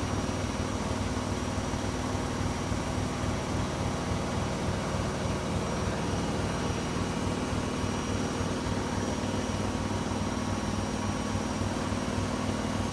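Blomberg WMI7462W20 integrated washing machine spinning a load of towels at high speed on its spin cycle. It gives a steady hum with a fast, even low pulsing from the drum.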